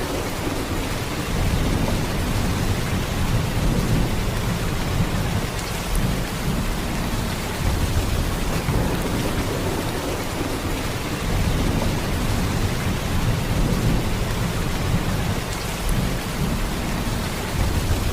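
Heavy, steady rain: a dense hiss of downpour with a deep rumbling undertone that swells and eases every few seconds.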